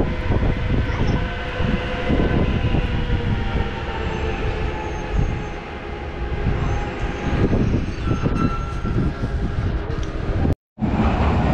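Light rail train running: a steady low rumble with faint steady motor tones over it. The sound cuts out for a split second about ten and a half seconds in, then carries on the same.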